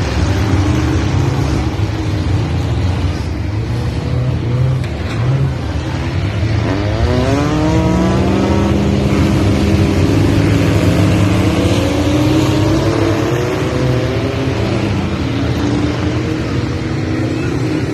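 Several cars' engines running hard in a race on an oval track, a continuous heavy rumble. About six seconds in, one engine accelerates, its pitch rising sharply, then holding high.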